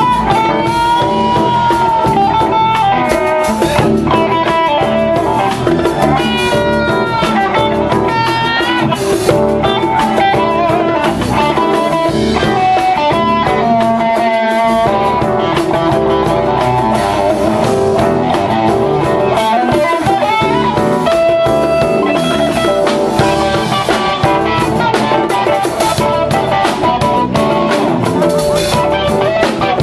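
A band playing an instrumental stretch, with an electric guitar taking the lead over drum kit, bass and keys; the guitar line bends and wavers between held notes.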